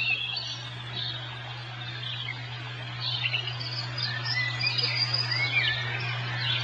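Birds chirping and calling, many short overlapping chirps and quick rising and falling whistles, over a steady low hum.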